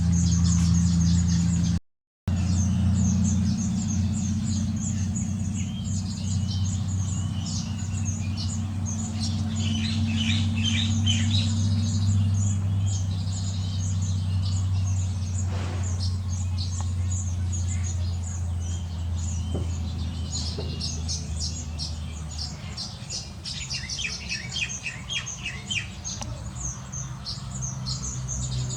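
Many small birds chirping and twittering together in quick, overlapping calls, over a steady low hum that fades about three quarters of the way through. The sound drops out briefly about two seconds in.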